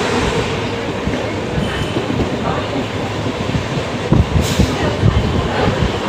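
Mumbai suburban local train (electric multiple unit) running, a steady dense rumble and rattle, with a brief hiss about four and a half seconds in.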